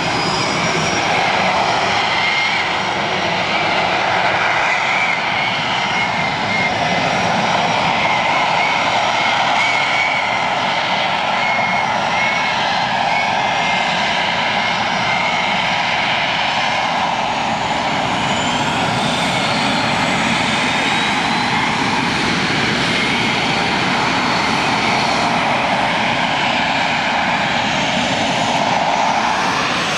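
AV-8B Harrier's Pegasus vectored-thrust turbofan running loud and steady in jet-borne flight near the ground, with a wavering high whine over the rush; a few higher whines rise and fall about two-thirds of the way through.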